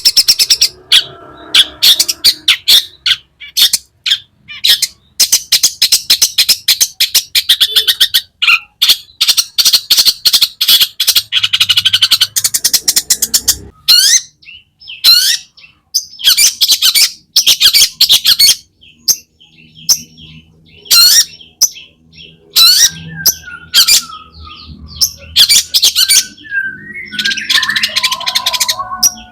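Long-tailed shrike (cendet) singing loudly in runs of rapid, harsh chattering notes mixed with short whistled phrases, broken by brief pauses. This is the full song with mimicked fill-in phrases ('isian') that keepers play to prompt other shrikes to sing.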